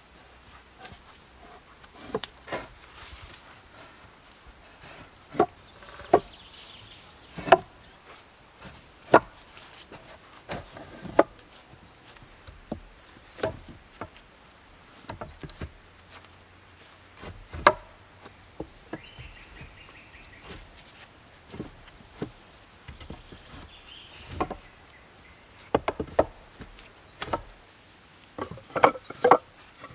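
Wood being chopped and knocked by hand, irregular strokes every second or two, with a quick flurry of blows near the end.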